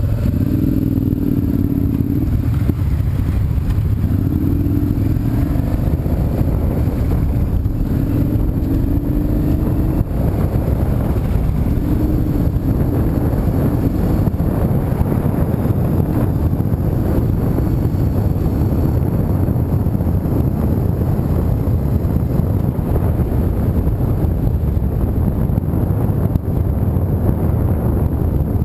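Car driving: a steady, loud low rumble of engine and road noise. In the first half a pitched hum rises and falls several times.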